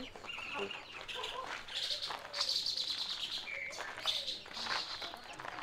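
Small birds chirping, with a fast, high twittering run about two and a half seconds in.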